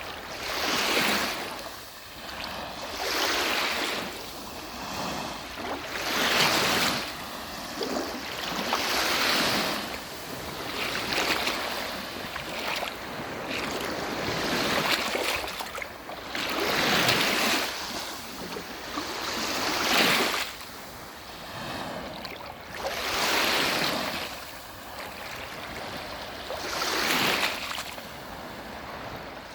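Small sea waves breaking and washing on the shore, one swell every two to three seconds, with some wind on the microphone.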